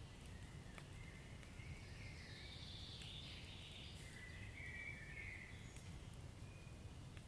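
Wood fire burning quietly in a fireplace: a low, steady rumble with a few faint crackles and a soft hiss through the middle few seconds.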